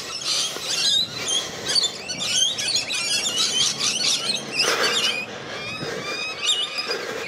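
A flock of birds calling together, a dense chatter of many short, high chirps and squeaks overlapping.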